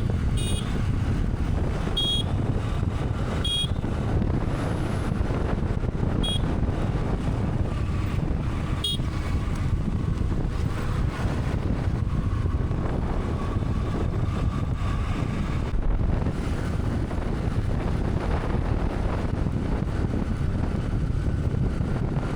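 Motorcycle riding at speed: a steady engine and road rumble with wind buffeting the microphone. Short horn beeps sound five times in the first ten seconds or so.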